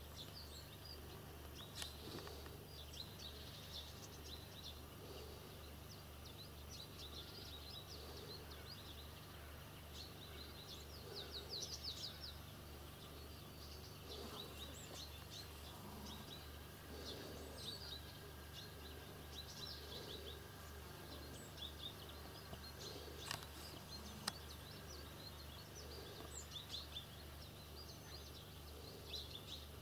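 Small birds chirping on and off, many short high chirps scattered throughout, over a steady low hum, with two sharp clicks about two-thirds of the way through.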